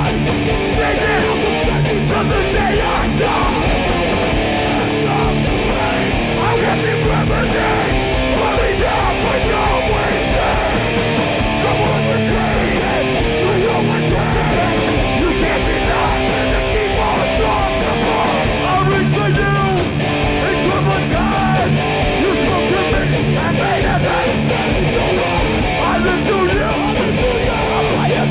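Hardcore punk band playing live: distorted electric guitars, bass and drums at a steady, loud level, with no vocals standing out.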